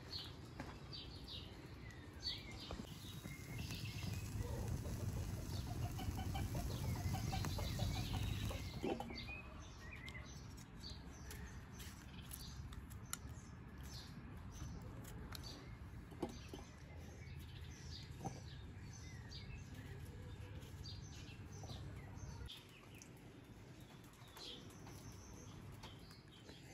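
Small birds chirping, many short high calls throughout, with a louder low rumble for several seconds early on.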